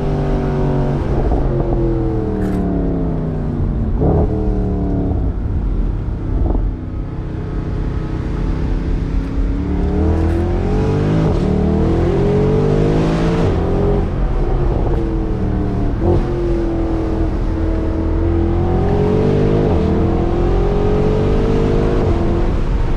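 Mercedes-Benz SLS AMG Roadster's naturally aspirated 6.2-litre V8 under way, heard from the open cockpit with wind noise. The engine note falls over the first few seconds, with sharp cracks at the gear changes, then climbs hard as the car accelerates and rises again near the end.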